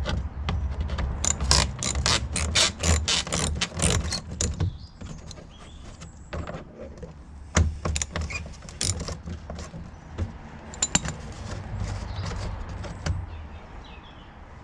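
A hand socket ratchet clicking in quick runs, with some tool clatter, as the fasteners holding a car's plastic engine undertray are undone. The clicks come thick and fast for the first few seconds, then only now and then.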